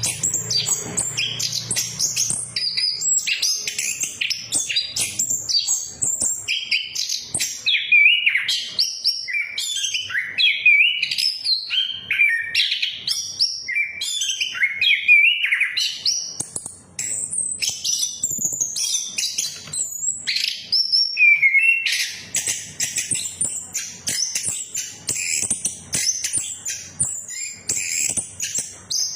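Chestnut-capped thrush (anis kembang) singing a long, unbroken song of rapid, varied whistled phrases and trills, high-pitched and constantly changing, with only a brief pause about halfway through.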